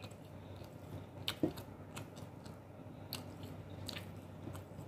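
Quiet, close-up mouth sounds of chewing and gnawing meat off a barbecued chicken thigh bone, with a few short sharp clicks and smacks.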